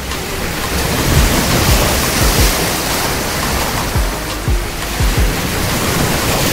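Ocean waves washing and breaking on the shore, a dense rushing that swells and ebbs, with background music and low thumps under it.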